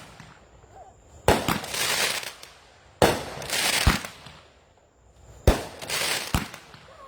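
Consumer fireworks firing three shots about two seconds apart. Each is a sudden launch pop followed by a second or so of hissing crackle, and the later two end in a sharp bang.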